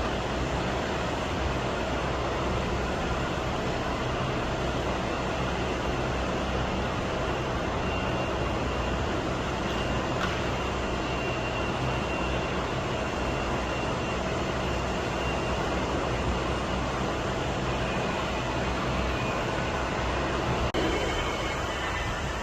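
Jet airliner engines running steadily, a constant wide rushing noise with a faint high whine.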